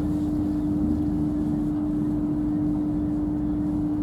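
Interior noise aboard a Hitachi Class 800 bi-mode train: a steady low rumble under a constant, unchanging hum.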